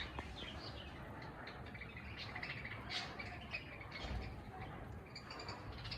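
Budgerigars chattering: a steady run of quick chirps and warbling notes, with a few louder chirps about halfway through and near the end.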